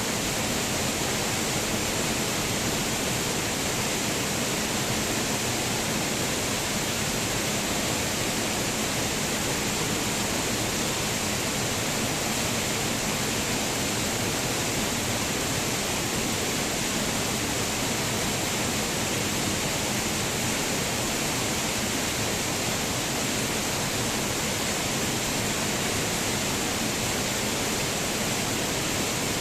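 Waterfall: a steady, unbroken rush of falling water with a bright hiss, never changing in level.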